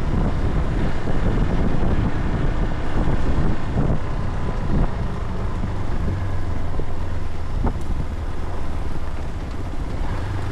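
Vehicle running with a steady low rumble and wind noise, with a few short knocks and bumps along the way.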